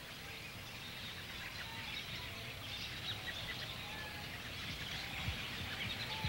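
Faint outdoor ambience: a steady background hiss with scattered short, faint bird chirps and twitters.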